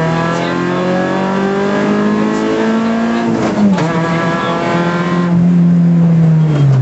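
Rally car engine at full throttle, heard from inside the cabin: the pitch climbs steadily as the car accelerates, drops sharply at a gearchange about three and a half seconds in, holds, then falls near the end as the driver comes off the throttle.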